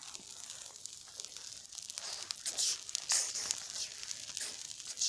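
Campfire crackling: many small sharp pops, with a few short bursts of hiss near the middle.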